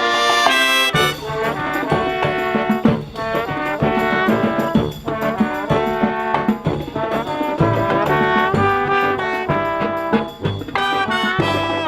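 Marching brass band playing live: trombones and trumpets carrying a medley melody over a steady drum beat.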